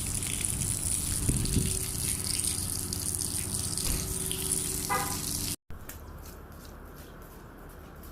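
Strong wind rushing, with a steady low hum beneath it. About five and a half seconds in it cuts off suddenly and resumes as a quieter rush.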